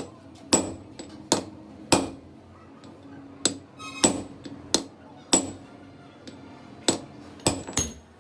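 Hammer striking metal, about a dozen irregularly spaced blows, each with a short ringing after it.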